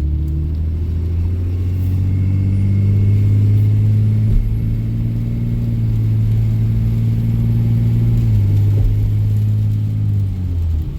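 Diesel truck engine running under load while driving, a steady low drone that rises slowly. It steps in pitch about four seconds in and again about eight seconds in, then eases off near the end.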